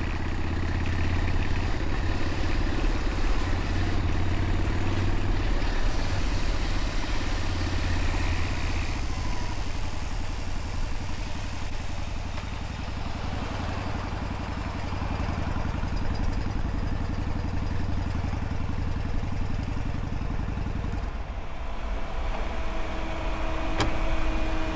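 Motorcycle engine running as the bike is ridden, with wind rushing past the microphone; the engine note eases off about a third of the way in and shifts again near the end.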